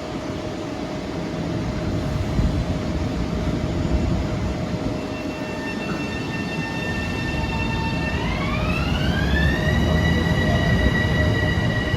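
Long Island Rail Road electric train rumbling on the rails and growing louder. About eight seconds in, its traction-motor whine rises in pitch over a second or so and then holds steady.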